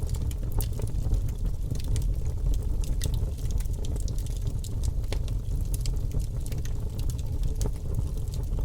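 Logs burning in a fireplace, with frequent sharp crackles and pops scattered irregularly over a steady low rumble of the fire.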